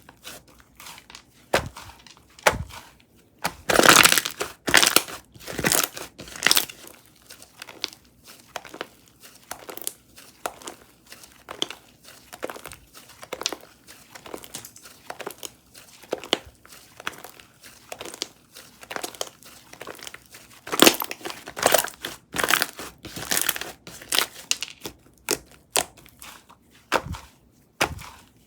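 Cocomo Slime's Vegan Green Caprese slime being squished and pressed by hand, giving a string of short pops and crackles, with louder clusters a few seconds in and again past the middle.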